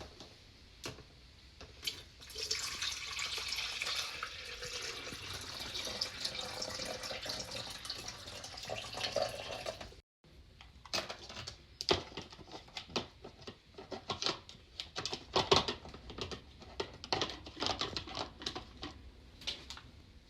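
Water running steadily in a small room for about eight seconds, then cutting off abruptly. After that comes a scatter of light taps and clicks.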